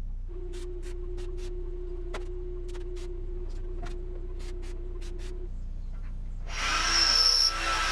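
Workshop tool sounds: scattered sharp clicks and taps over a steady tone and an electrical hum. About two-thirds of the way in, a much louder hissing noise with a high whine starts.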